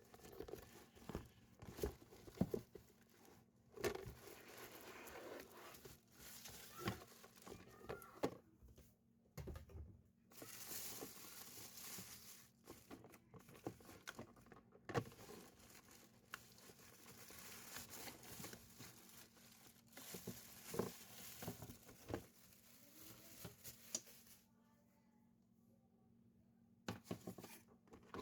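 Packaging being handled by hand: rustling, crinkling and tearing of paper or plastic in uneven stretches, with scattered light knocks and clicks.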